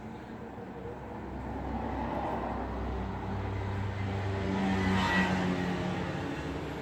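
A motor vehicle passing by on a road: its engine hum and tyre noise build, peak about five seconds in, then fade.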